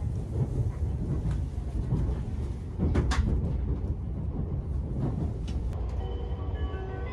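Steady low rumble of a Shinkansen car running, heard from inside the passenger cabin, with a few sharp knocks, the loudest about three seconds in. Background music comes in about six seconds in.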